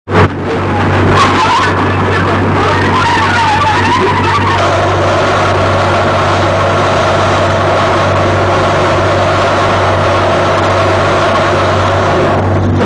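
Railway locomotive and train running, a loud steady drone with a wavering high-pitched squeal over the first four seconds; the sound cuts in suddenly at the start.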